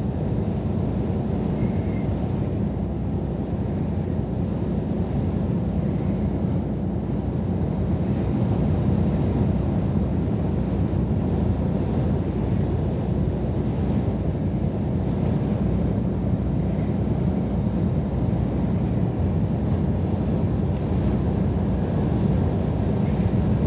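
Scania R500 truck driving at a steady speed: an even low drone of its diesel engine and tyre and road noise, with no change in pitch or level.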